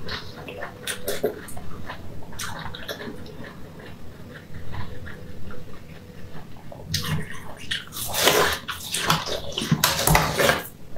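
Close-miked wet chewing of a soft, translucent jelly-like food, with sticky clicks and smacks. There are louder bursts of wet slurping and chewing about seven seconds in and again near the end.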